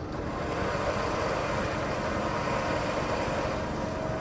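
Four-wheel-drive vehicle's engine running, getting louder just as the sound begins and then holding steady.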